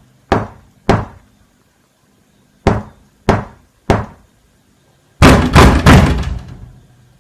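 Knocking on a door, a horror sound effect: two knocks, then after a pause three evenly spaced knocks, and about five seconds in a loud rapid pounding.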